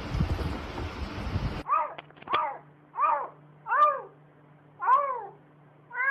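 A cat meowing over and over: about six short meows, each rising then falling in pitch, roughly one a second, over a faint low hum. Before the meows, a second and a half of rough noise that cuts off abruptly.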